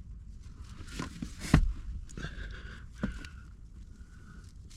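Handling noises of wires and parts being worked by hand: a few knocks, the loudest about a second and a half in, over light rustling.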